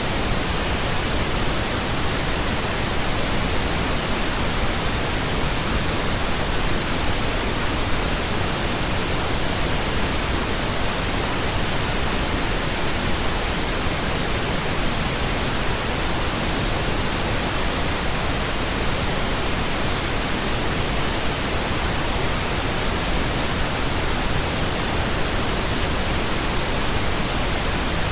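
Pink noise: a steady, unchanging hiss spread evenly from deep lows to high treble.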